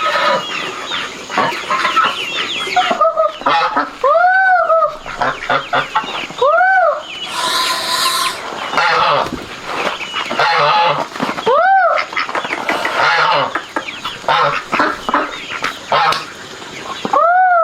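Chickens clucking busily, with a drawn-out squawk that rises and falls about four times.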